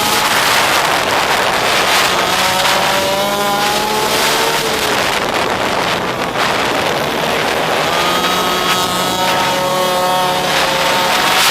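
Pit bike engine revving as it is ridden. The pitch climbs twice, once about two seconds in and again near the end, with dips between.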